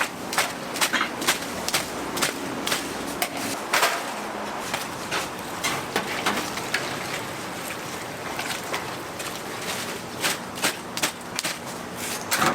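Irregular sharp clicks and knocks, bunched close together at times, over a steady hiss.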